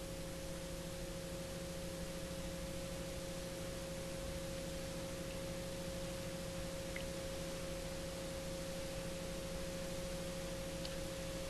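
Garrett TPE331 turboprop engines running steadily at ground run-up power, heard as a constant faint hum of several steady tones over hiss.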